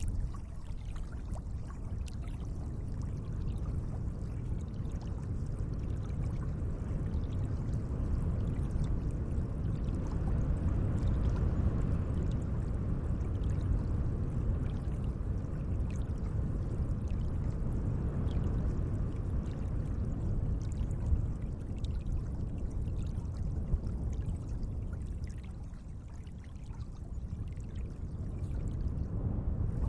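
Gentle lake water: a steady low wash of moving water with faint small drips and splashes, swelling a little midway and easing off briefly near the end.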